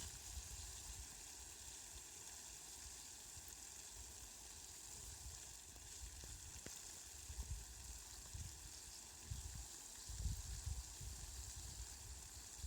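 Rain falling: a faint, steady hiss, with low rumbles coming and going in the second half.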